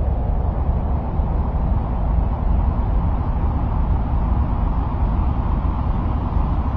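Ambient noise track presented as the sound of Mars: a steady, unbroken deep rumbling hiss, heaviest in the low bass and fading toward the treble, with no distinct events.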